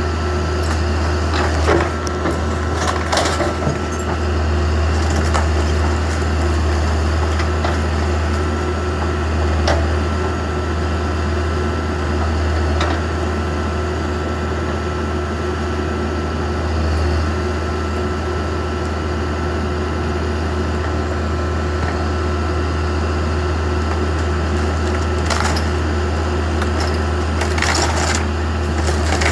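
Backhoe engine running steadily with a constant whine, while wooden garage framing cracks and splinters under the bucket every few seconds, with a cluster of cracks near the end.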